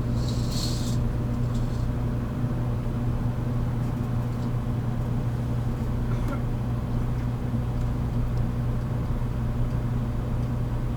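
JR Kyushu 783 series limited-express train standing at a station, heard inside the motor car: a steady hum from its onboard equipment, with a short hiss about half a second in.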